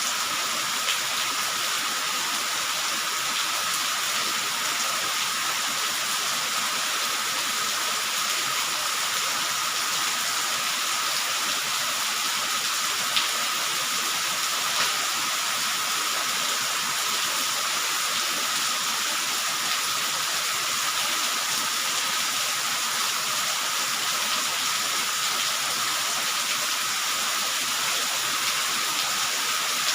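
Steady rain falling, an even unbroken hiss with a few single louder drop ticks.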